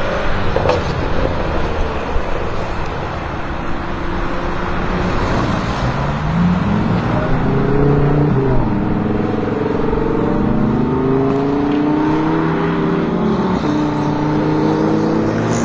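BMW M6 Gran Coupe's twin-turbo V8 through an Akrapovic exhaust accelerating hard, the revs climbing, then falling at an upshift about halfway through and again a couple of seconds before the end, over steady wind and tyre noise.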